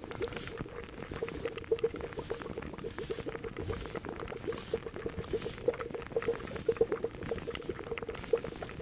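Liquid bubbling at a steady boil in a pot, a dense run of irregular bubble pops with faint clicks.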